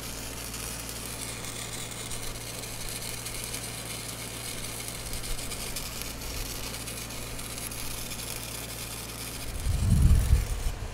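Stick-welding arc, a 6010 electrode run downhill, with a steady crackling hiss that cuts off at the end as the arc is broken. A short low rumble comes near the end.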